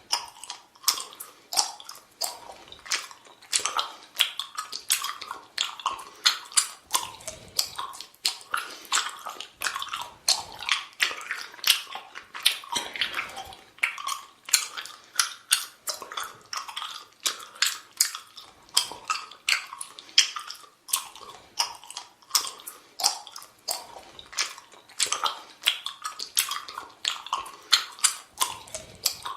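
A person chewing bubble gum close up: wet, sticky smacks and clicks of the mouth and gum, repeating about twice a second.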